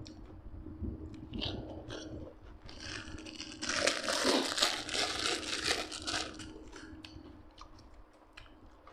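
Close-up chewing and crunching of food, with scattered crisp clicks and a loud, dense stretch of crunching for about three seconds in the middle before it fades.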